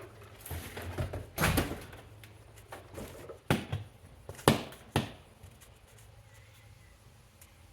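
Boxes and vacuum parts being handled while sorting a pallet: a rustle, then four sharp knocks and thumps over the next few seconds, the loudest about four and a half seconds in.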